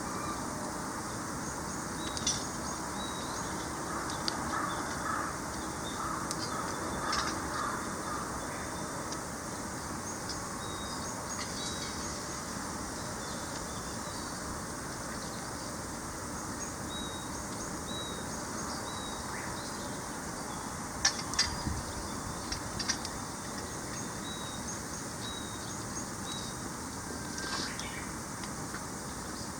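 Birds calling over a steady hiss: short high chirps repeating throughout, and a run of harsher, lower calls about four to eight seconds in. A few sharp clicks come about 21 seconds in.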